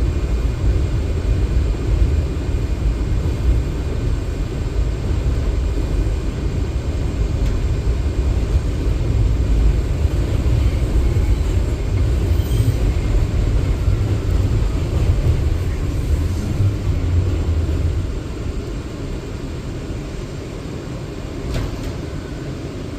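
Low, steady rumble of an R179 subway car heard from inside as the train runs on the rails; the rumble drops noticeably about three-quarters of the way through as the train eases off.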